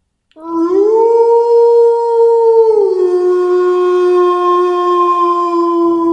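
A wolf howling: one long howl that rises at the start, holds steady, drops to a lower pitch about three seconds in, and holds there until it fades near the end.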